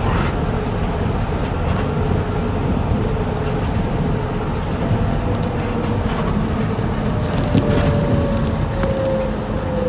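City bus running, a steady low rumble with scattered rattles and clicks. In the last couple of seconds a whine slides slowly down in pitch as the bus slows.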